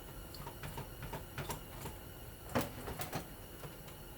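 Light clicking and tapping of a small brass pull chain and metal parts being handled, with a few sharper clicks about two and a half to three seconds in.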